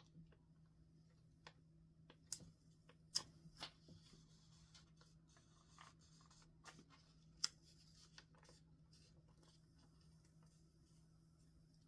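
Quiet paper and sticker handling on a journal page: soft rustles and small taps, with three sharper clicks, over a faint steady low hum.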